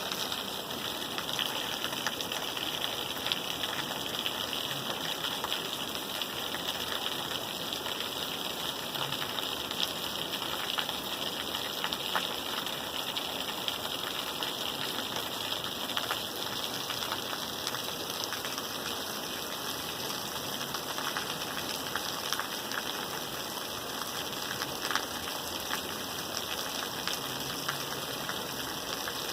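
Steady rain falling: an even hiss with many scattered ticks of individual drops.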